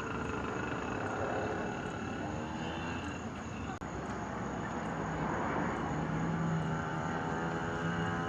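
Pocket bike's small two-stroke engine running as the bike is ridden, its pitch rising and falling with the throttle, with a brief drop a little under 4 s in. The exhaust has its muffler welded back on, which makes it quieter.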